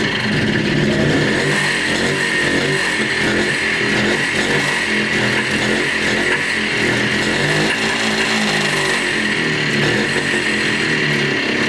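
Montesa Cota 247's single-cylinder two-stroke engine running continuously, its revs wavering up and down.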